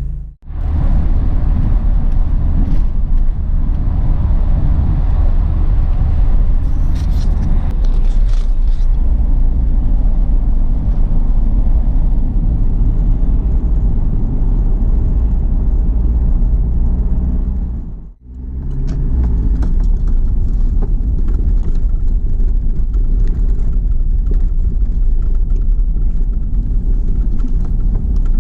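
Steady low rumble of a car on the road, engine and tyre noise heard from inside the cabin. It drops away briefly twice, just after the start and a little past halfway, then picks up again.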